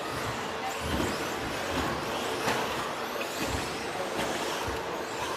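Electric 1/10-scale RC stadium trucks with 13.5-turn brushless motors racing on a dirt track: a steady mix of motor whine rising and falling with the throttle and tyres on dirt, with a few low thumps.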